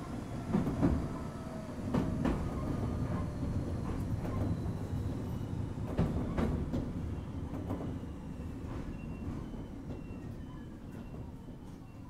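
A Gakunan Railway 7000 series electric railcar (ex-Keio 3000 series) heard from on board. It runs with a low rumble, and its wheels clack over rail joints. The running sound fades away over the second half as the car slows for a station stop.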